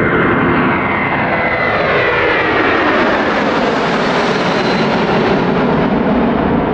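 Boeing 747-400 climbing out at takeoff power and passing low overhead: loud, steady jet-engine noise from its four turbofans, with a whine that slides steadily down in pitch as it goes by.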